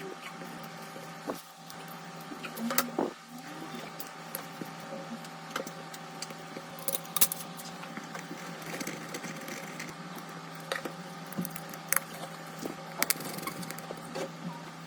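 Scattered sharp clicks and light taps, irregular and a few seconds apart, over a steady background hum.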